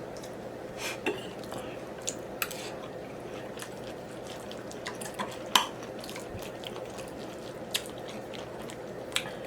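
A person eating close to the microphone: chewing with wet mouth smacks and scattered sharp clicks, over a faint steady hum.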